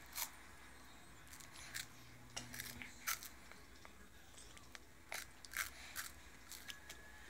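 A toddler biting and chewing corn puffs: faint, irregular short crunches and mouth clicks.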